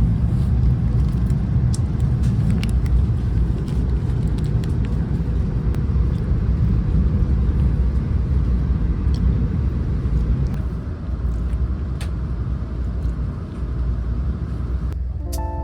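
Steady, loud low rumble of a moving vehicle, with scattered faint clicks. Music with plucked notes comes in near the end.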